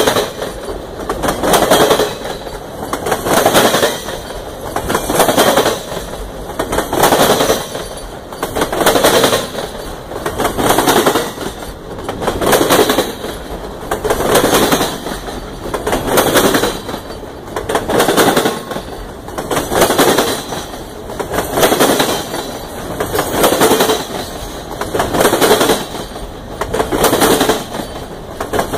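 Triple Crown RoadRailer train rolling past close by: the trailers' steel wheels clatter on the rails in an even rhythm of loud surges, about one every two seconds as each trailer's bogie goes by.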